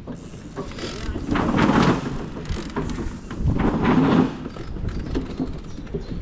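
Electric mountain bike ridden along a dirt trail: tyres rolling and bike rattle mixed with wind on the microphone, swelling louder twice.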